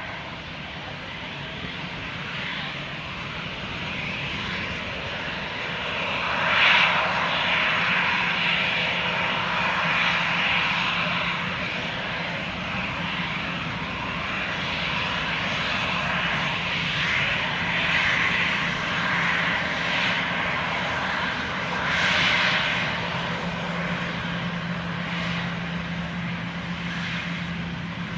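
Jet noise from an Airbus A320-214's CFM56 turbofan engines, a steady rush that builds over the first several seconds and swells twice, about a quarter of the way in and again about three quarters in, over a steady low hum.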